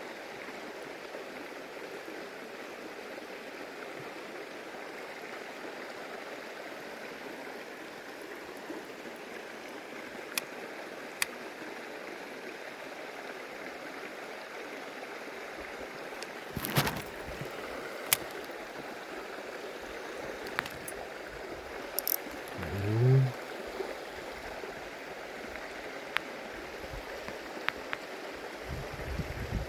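Stream water running steadily, with a few sharp clicks scattered through the second half and one short low sound that drops in pitch a little past the twenty-second mark.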